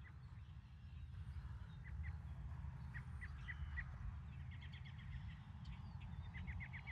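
Birds calling in the distance, faint short high notes, some spaced out and some in quick runs of five to eight, over a low steady rumble.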